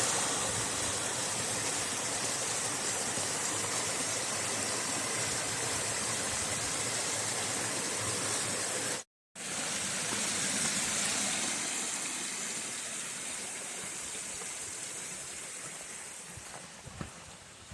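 Steady hiss of water, like rain or a running stream, cut off briefly about halfway through and then slowly fading, with a few footsteps near the end.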